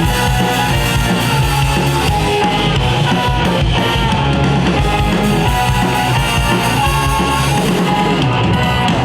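Rock band playing live, an instrumental passage between sung lines, with drum kit and guitar driving a steady beat.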